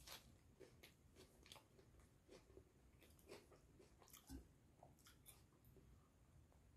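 Faint close-up chewing and biting of a chicken burger in a soft bread bun: a string of small quick clicks and crackles from the mouth, with a soft thump about four seconds in.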